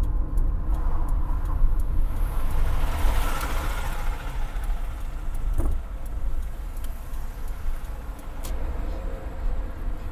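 Car running at low speed: a steady low rumble, with a broad hiss that swells and fades about three seconds in.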